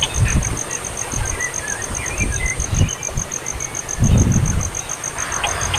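Faint short bird chirps over a steady, rapid high-pitched pulsing, with low thumps and rumbles; a louder low rumble comes about four seconds in, and a run of quick, evenly spaced high clicks starts near the end.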